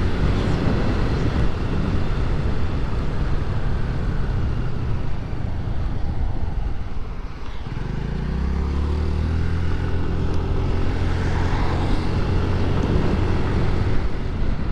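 Honda Navi's small single-cylinder engine under way with wind and road noise. The engine eases off about five to seven seconds in. Near eight seconds it revs up with a quickly rising pitch as the bike accelerates, then settles into a steady drone.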